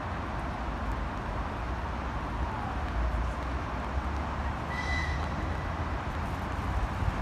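Steady low rumble and hiss of a train approaching in the distance, with a short high-pitched whistle about five seconds in.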